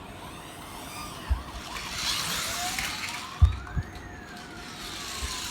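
Police siren: short quick up-and-down whoops at first, then one slow wail that rises and falls. A few dull thumps sound in between, the loudest about halfway through.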